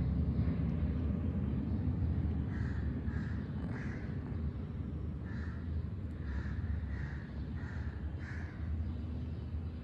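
A series of about nine short, harsh bird calls, like crows cawing, starting a couple of seconds in and repeating every half-second to a second, over a steady low rumble.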